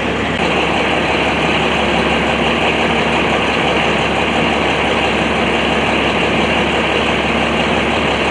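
A vehicle engine idling steadily, a continuous even hum that gets a little louder about half a second in.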